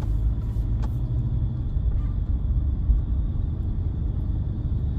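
Steady low rumble of a car heard from inside the cabin, with one faint click about a second in.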